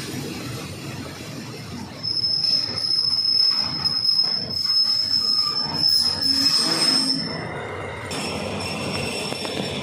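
Train wheels squealing against the rails: a loud, high, steady screech that starts about two seconds in and stops about three-quarters of the way through, over the train's running noise.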